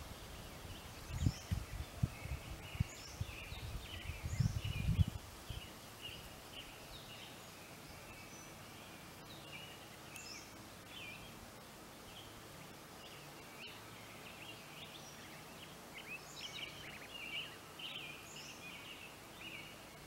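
Birds chirping and singing in short, repeated phrases over a faint steady background hiss, with a run of low rumbling thumps during the first five seconds.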